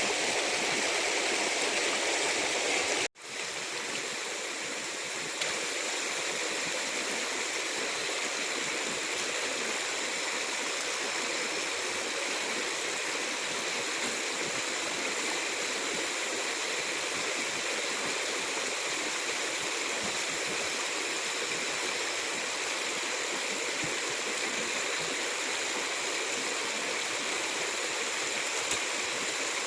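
Steady rushing of a flowing stream, with a brief cut-out about three seconds in before it carries on at much the same level.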